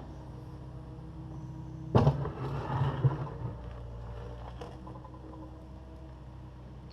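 Takeuchi TB260 excavator's diesel engine running steadily, with a loud crash about two seconds in, then a second or so of rattling clatter as its bucket breaks up and shifts concrete, and a smaller knock near five seconds.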